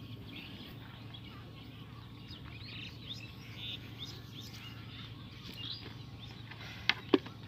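Small birds chirping and calling in many short notes over a steady low background rumble, with two sharp knocks close together near the end.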